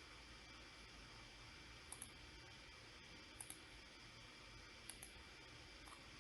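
Faint computer mouse clicks, mostly quick double clicks, three of them about a second and a half apart and then a single click, over low hiss.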